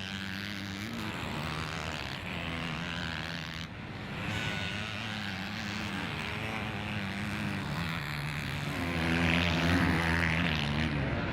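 Motocross bike engines racing, their pitch holding and then stepping up and down with throttle and gear changes. There is a brief break about four seconds in.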